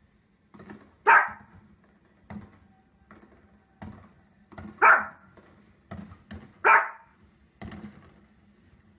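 A dog barking: three loud, sharp barks a couple of seconds apart, with fainter short sounds between them.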